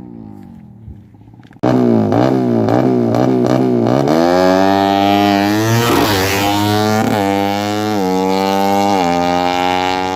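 Tuned Suzuki Satria FU single-cylinder engine through a Fantera aftermarket exhaust. After a faint fall in revs it comes in loud suddenly, blipped in quick revs, then climbs and is held high, with the pitch stepping down twice near the end.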